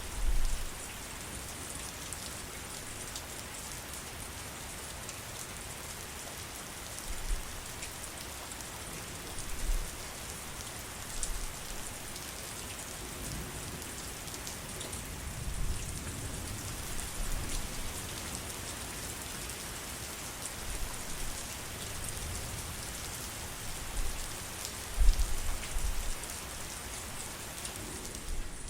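Steady heavy rain falling, a dense even hiss of drops, with a few short dull low thuds scattered through it, the loudest about three quarters of the way in.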